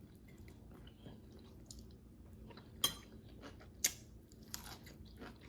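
Close-up chewing of a crispy fried chicken wing: soft mouth sounds and small crackles, with two sharp crunches about a second apart near the middle.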